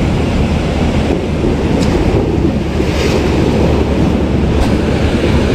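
Loud, steady wind buffeting the microphone, with sea waves washing in underneath.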